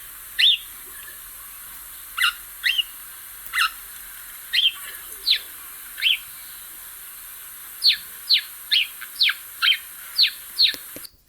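House sparrow chirping: a string of short, sharp chirps that sweep down in pitch, about a second apart at first and then quicker near the end. A steady recording hiss lies under the calls.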